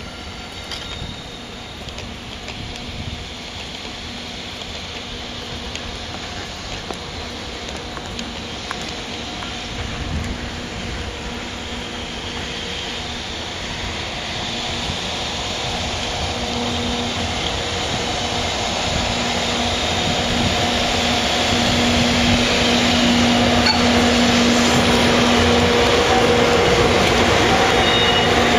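Freight train approaching along the tracks: steady rail rumble with a low hum that grows gradually louder as it nears.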